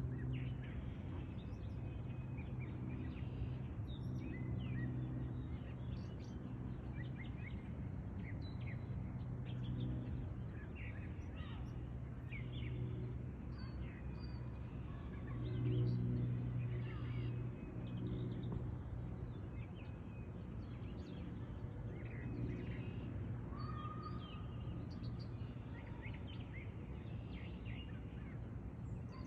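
Birds chirping at intervals with short, high calls, over a steady low hum that swells briefly about halfway through.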